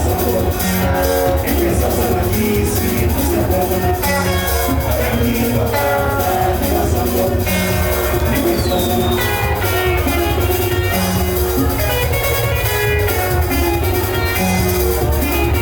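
Live band music with quick plucked guitar lines over a steady bass and drum beat.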